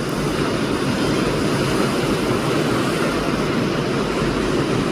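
Strong sea wind buffeting the microphone over the steady rush of heavy surf.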